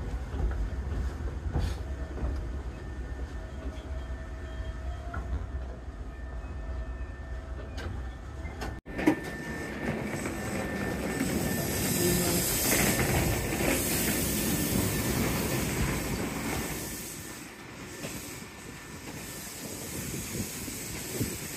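Electric commuter train running slowly into a terminus, heard from inside the car: a low rumble of wheels and motors with a faint thin squeal. The sound is cut off sharply about nine seconds in and gives way to broader noise with a hiss that swells past the middle and then dies down.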